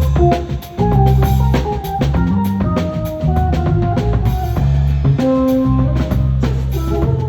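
A band playing an instrumental groove: drum kit beat over a bass line, with a melody line stepping above it. The music dips briefly just under a second in, then comes back in full.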